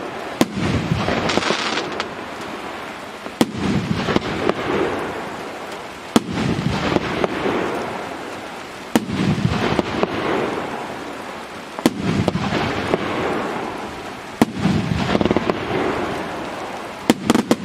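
25-shot consumer fireworks cake firing, one shot about every two and a half to three seconds. Each shot is a sharp report followed by a few seconds of dense crackling bursts.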